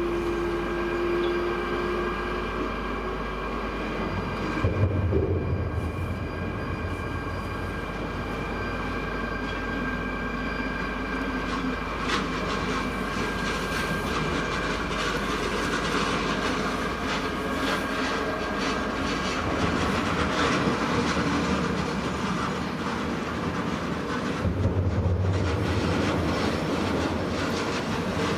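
A train running past on the track for the whole stretch, its wheels clattering over the rails, with steady high thin tones above the rumble. There are heavier low thumps about five seconds in and again near the end.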